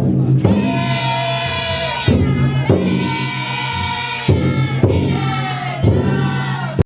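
Futon daiko bearers chanting together in long drawn-out calls, with the float's taiko drum struck every second or two.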